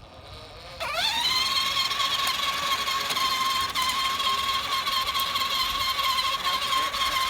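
Electric motor and gearbox of a Peg Perego Ducati ride-on toy motorcycle starting up about a second in with a quickly rising whine, then running at a steady high whine.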